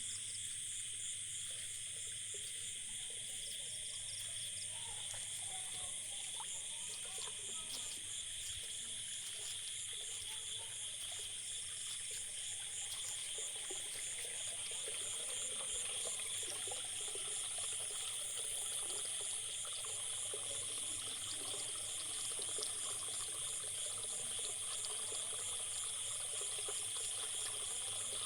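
Night insects chirring steadily in a high, dense chorus, one of them pulsing rapidly, over rainwater dripping and trickling after a heavy downpour; the dripping grows busier about halfway through.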